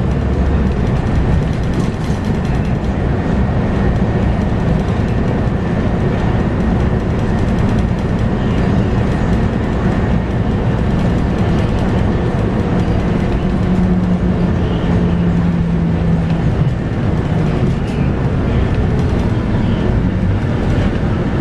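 Scania K230UB bus on the move, heard from on board: the 5-cylinder Scania DC9 diesel engine running with a ZF Ecomat automatic gearbox, over steady road rumble. The engine note shifts in pitch and strength a few times and holds steady for a few seconds past the middle.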